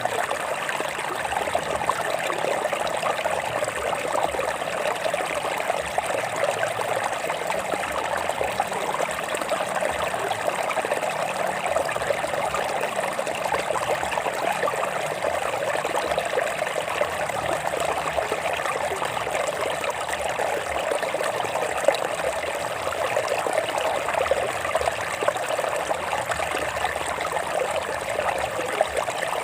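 Stream water flowing and trickling over rocks, a steady, continuous babble.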